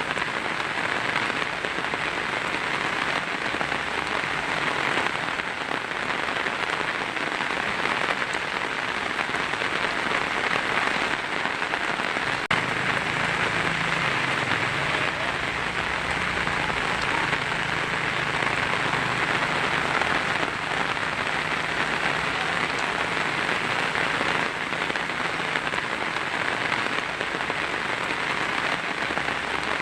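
Heavy rain drumming steadily on a tin roof, with a faint low rumble through the middle.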